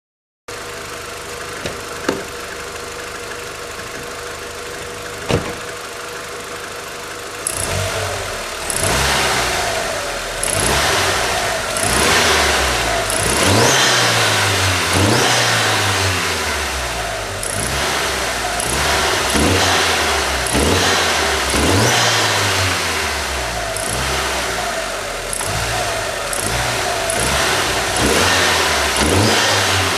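Car engine running steadily for several seconds, with two sharp clicks, then revved in short blips about every second and a half, each rising and falling back. The owner posted it for an unidentified odd noise.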